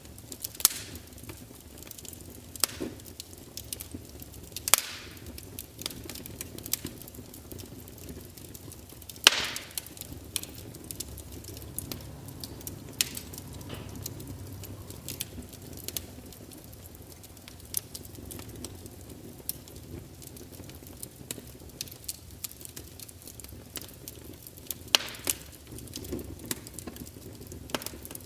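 Wood fire crackling: irregular sharp pops and snaps over a low steady hiss, with a few louder pops, the loudest about nine seconds in.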